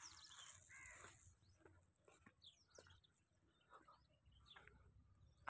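Near silence outdoors, with faint, scattered bird calls, among them crows cawing.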